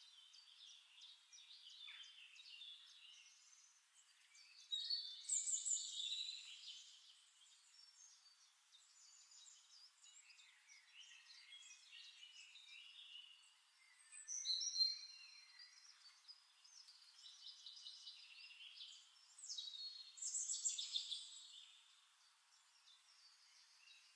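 Wild birds singing: quick chirps and trills go on throughout, with louder song phrases about five seconds in, near the middle and again about twenty seconds in.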